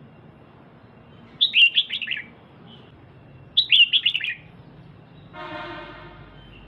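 Female red-whiskered bulbul calling: two quick chattering phrases of falling notes about two seconds apart, the kind of female call used to rouse male birds. Near the end comes a quieter buzzy tone about a second long.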